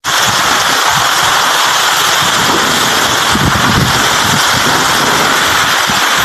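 Heavy rain pouring down hard in a steady roar of noise, with wind gusts buffeting the microphone in low rumbles.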